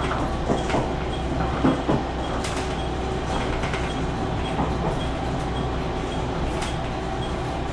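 Diesel limited express train heard from the driver's cab as it pulls into a station platform: a steady low running hum, with irregular clunks of the wheels passing over rail joints and points, several close together in the first two seconds and a few more spread through the rest.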